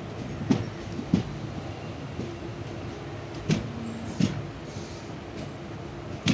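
Passenger train running at speed: a steady rumble broken by sharp knocks in pairs as the wheels pass over rail joints.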